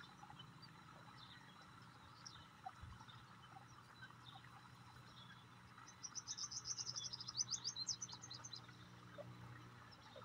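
Bird chirping: scattered faint chirps, then about six seconds in a fast, high-pitched run of chirps lasting nearly three seconds.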